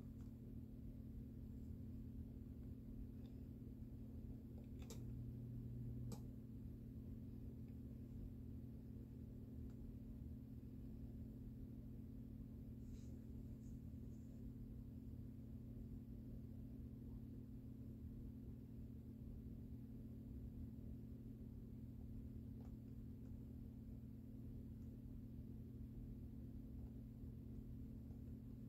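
Harbor Breeze Wheatland ceiling fan running with a steady low motor hum, with a few faint clicks.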